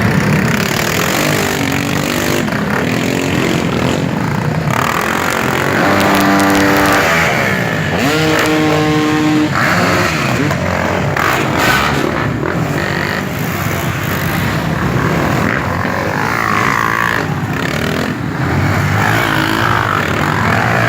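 A procession of motorcycles riding past, engines running with occasional revs that rise and fall in pitch.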